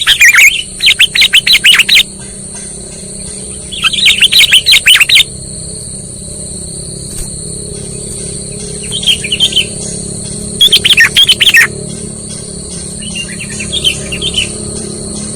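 Sooty-headed bulbul (kutilang) calls used as a lure: loud bursts of quick, bubbling chirps come in about six phrases with short pauses between them. A steady high-pitched whine runs underneath.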